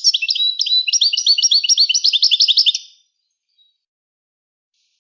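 European goldfinch singing: a fast, tumbling run of bright chirps and trills that stops about three seconds in, followed by a pause.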